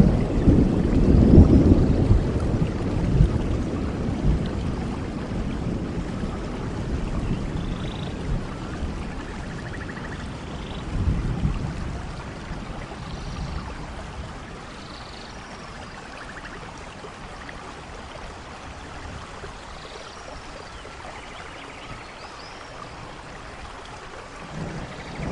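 Steady rain falling, with rolling thunder: a low rumble at the start fades away over the first dozen seconds or so, swells briefly again about 11 seconds in, and a new rumble begins near the end.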